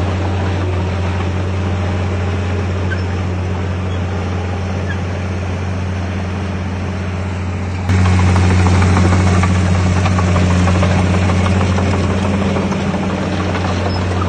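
Heavy diesel engine of a Komatsu D51PX bulldozer running with a steady low hum, becoming suddenly louder and harsher about eight seconds in.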